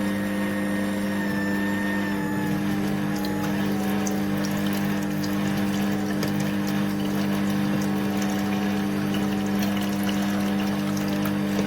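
Fretta cold-press slow juicer's motor running with a steady hum as it presses orange pieces. A higher tone in the hum dips slightly in pitch a couple of seconds in.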